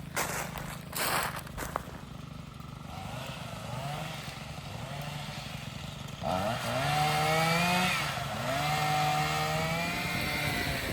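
Chainsaw engine revving up sharply, holding high, easing off and revving up again, with a few short knocks in the first couple of seconds.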